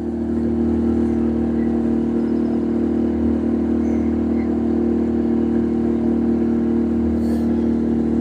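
A boat's engine running at a steady speed, a constant even drone.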